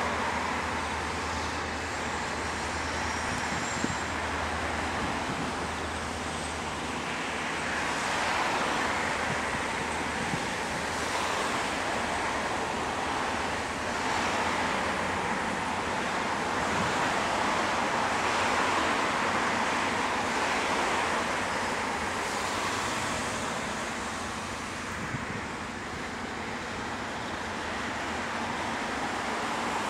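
Freight train passing at a distance: a steady rumble and rush of wagons rolling over the track that swells and eases a little, with a low drone from the diesel locomotive's engine during the first several seconds.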